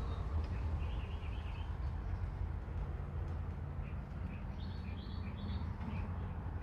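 Wild birds chirping and calling in short repeated notes, with a busier run of higher chirps about five seconds in, over a steady low rumble.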